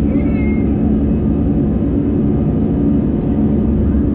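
Airbus A320 cabin noise during the climb after take-off: the engines and airflow make a steady, loud drone with a strong low hum.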